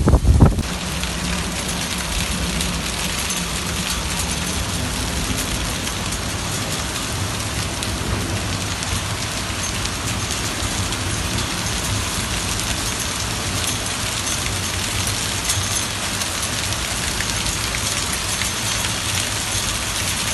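Heavy rain falling steadily, a dense even hiss of rain on surfaces. Wind buffets the microphone for the first half second.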